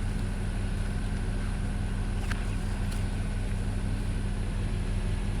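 Vehicle engine idling steadily, a constant low hum, with a couple of faint clicks partway through.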